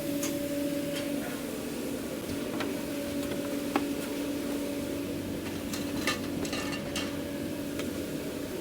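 Steady machine hum in a food-truck kitchen, with scattered light clicks and clatter of utensils and containers as food is portioned.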